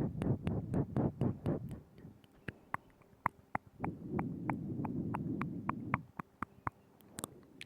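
Close-miked ASMR mouth sounds: a quick string of wet tongue and lip clicks, about three or four a second, over a soft, low, muffled rumble that fades after about two seconds and returns in the middle.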